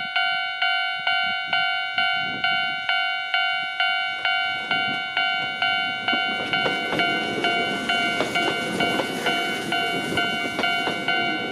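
Level crossing alarm bell ringing steadily about twice a second, while a Kōnan Railway 7000 series electric train runs past from about six seconds in, its rolling noise and wheel clicks rising over the bell and fading near the end.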